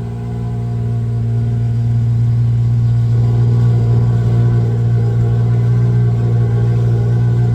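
An engine running steadily with a deep, even hum, growing louder over the first couple of seconds and then holding steady.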